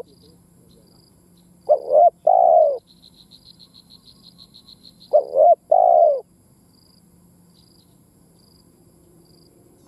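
Spotted dove cooing: two phrases about three seconds apart, each two short notes followed by a longer one. A faint, rapid, high chirping pulses in the background.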